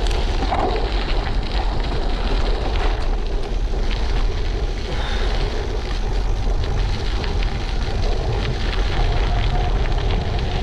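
Wind buffeting an action camera's microphone during a bike ride: a steady loud rushing rumble with a fine crackle.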